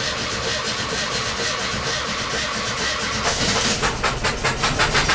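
Air-cooled VW Type 2 bus flat-four engine turning over on the starter without catching, with an uneven rhythm: one spark plug has been left out, so one cylinder has no compression. The pulsing grows stronger about three seconds in.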